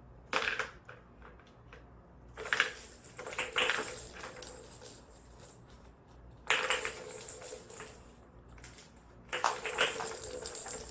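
Kitten's ball toy rattling and jingling as she bats the balls about, in a short burst near the start and then three longer bursts of a second or two with pauses between.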